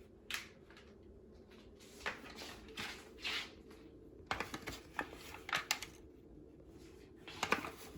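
Light food-prep handling noises: a scattered series of short rustles and scrapes as toppings are spooned and spread onto small pizza crusts, over a faint steady hum.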